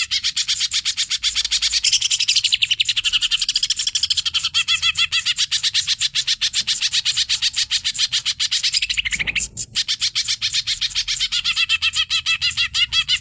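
Cucak ijo (green leafbird) singing a fast, unbroken run of rapid chirping and warbling notes, many per second, with a brief break about nine and a half seconds in.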